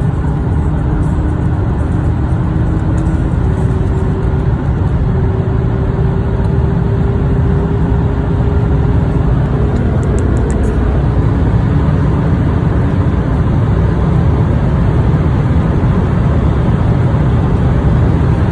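Audi A6 3.0 BiTDI twin-turbo V6 diesel, Stage 1 tuned, running under full throttle in a long high-speed acceleration pull. A loud, steady low drone whose tone climbs slowly and drops back a couple of times, at the gear changes, while the overall level slowly builds.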